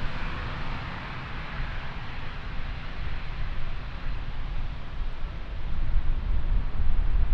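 Jet airliner engine noise at an airport: a steady rushing that eases off over the first couple of seconds, over a deep uneven rumble that grows louder near the end.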